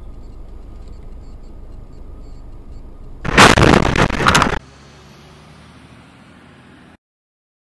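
A car collision picked up by a dashcam: a loud crash of impact lasting about a second over steady road rumble, cut off suddenly.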